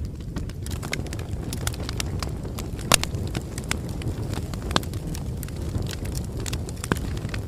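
Bonfire crackling: a steady low rumble with irregular sharp snaps and pops, the loudest snap about three seconds in.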